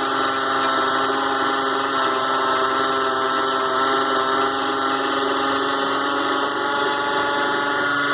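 ZhouYu 6-in-1 mini lathe's DC motor and spindle running at a steady speed with a constant whine, while the lathe turns aluminium stock down in diameter.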